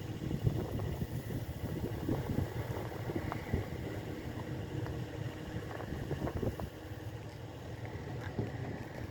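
Wind buffeting the microphone, an uneven low rumble, with a faint steady hum beneath it.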